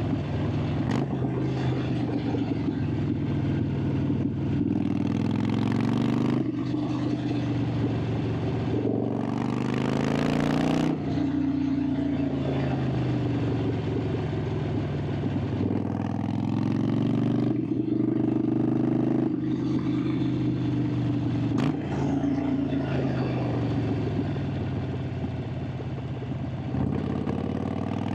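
Harley-Davidson Sportster 883's air-cooled V-twin under way, its note climbing as it accelerates and dropping back several times as the rider shifts or rolls off the throttle.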